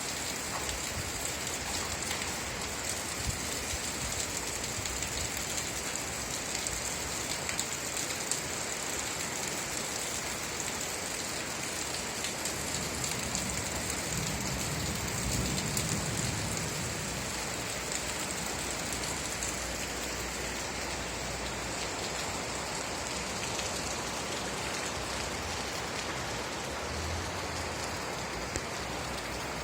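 Steady rain falling: an even hiss with scattered drop ticks. A soft low rumble swells briefly about halfway through.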